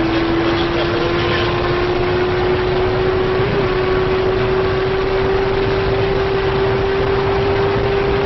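Car engine and road and wind noise heard inside a car's cabin during hard acceleration at motorway speed. One steady engine note rises slowly in pitch as the car speeds up.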